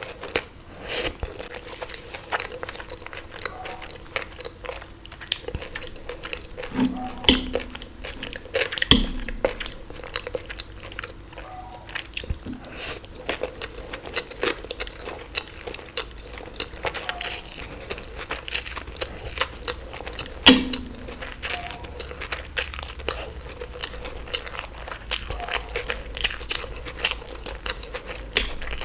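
Close-miked eating: biting and chewing with wet clicks and crunches, a person working through a mouthful after mouthful. A few louder sharp knocks stand out, the loudest about twenty seconds in.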